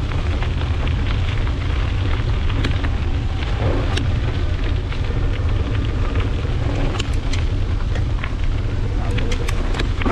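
Steady wind rumble on the microphone of a moving bicycle, with scattered clicks and rattles from the bike.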